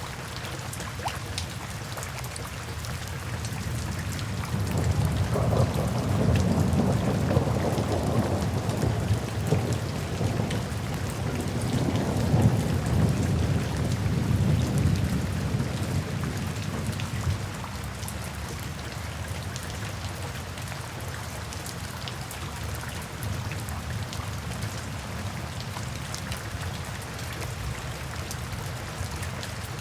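Steady rain pattering, with a long low roll of thunder that swells about four seconds in, rumbles for roughly ten seconds and fades away.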